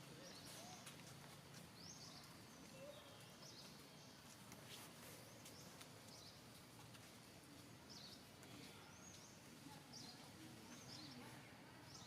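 Faint, short high-pitched chirps repeating every second or two over quiet outdoor background noise.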